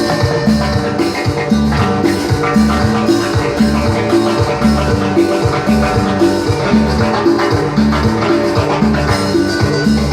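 A band playing upbeat Latin tropical dance music, instrumental: a repeating bass line under steady percussion and sustained melody notes.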